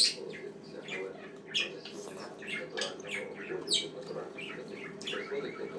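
Caged pet bird chirping in many short, quick calls, irregularly spaced.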